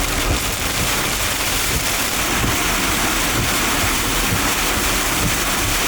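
Steady, loud rush of heavy rain and wind during a thunderstorm.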